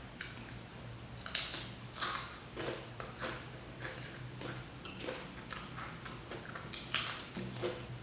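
A person eating close to the microphone, biting and chewing with short, sharp crackly bites at an uneven pace, loudest about a second and a half in and again near the end.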